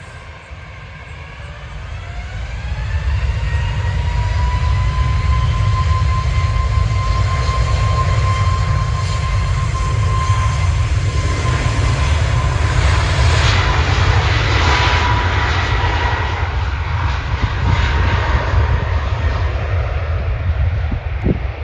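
Jet airliner's engines: a whine that climbs in pitch over the first few seconds and then holds steady over a loud roar and low rumble, building up in loudness and staying loud.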